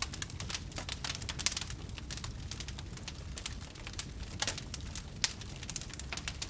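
Wood campfire crackling: irregular sharp snaps and pops over a low, steady rumble of the flames, with a few louder snaps, the sharpest about five seconds in.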